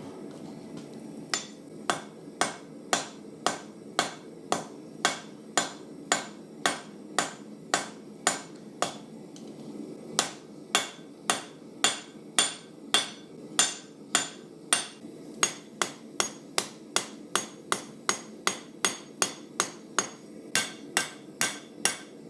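Horizontal peen hammer striking hot carbon steel on the anvil in a steady rhythm of about two ringing blows a second, with a short pause partway through: peening the blade section to widen it.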